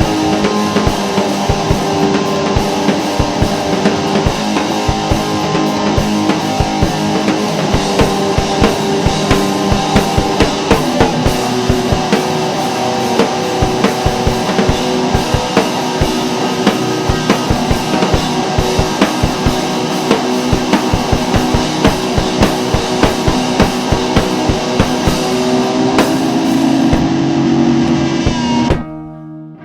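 Rock band playing, with a drum kit hitting steadily under electric guitars. Near the end the band stops suddenly and a guitar is left ringing.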